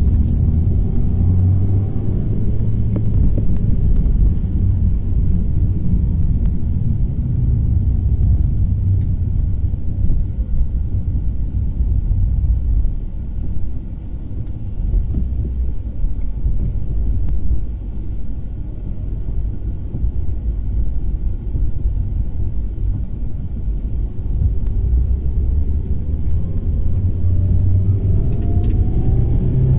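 Proton Inspira's engine and road rumble heard from inside the cabin. The engine note falls as the car slows, runs low while crawling, then rises steadily in pitch over the last few seconds as the car accelerates.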